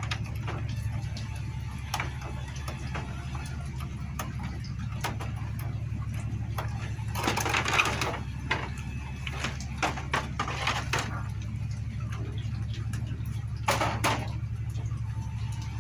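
Hand tools and metal engine parts clicking, knocking and clattering during a motorcycle engine teardown, with a few louder scraping clatters, over a steady low hum.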